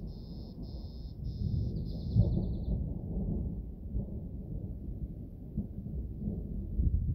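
Thunder rumbling low and unevenly, swelling about two seconds in. Over the first three seconds a high call repeats about three times a second and ends in a quick stutter.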